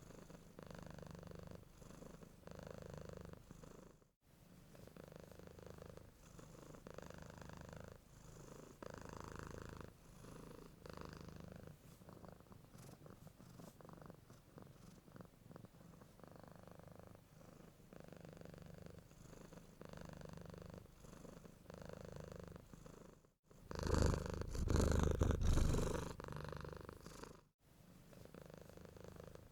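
Domestic cat purring close up, a rhythmic in-and-out rumble that pulses every second or two. It breaks off briefly three times. About 24 s in, it turns much louder for roughly four seconds, then drops back.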